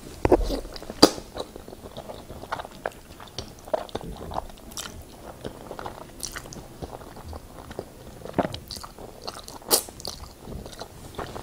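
Close-miked eating sounds: a person chewing mouthfuls of creamy ribbon pasta, with irregular wet mouth clicks and smacks and a few sharper ones.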